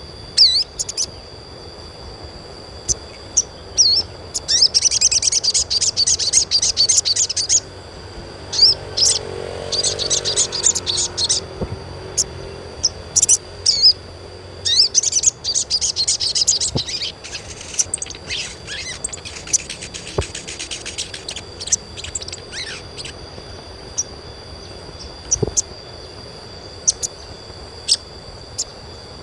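Sogok ontong (crimson sunbird) calling: sharp, high single chirps between several bursts of rapid, high twittering trills lasting two to three seconds each.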